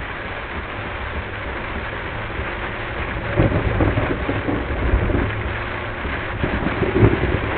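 Heavy rain on a car driving through a thunderstorm, a steady hiss over the low rumble of the moving car. From about halfway through, several louder rumbles of thunder come in. The recording plays at double speed.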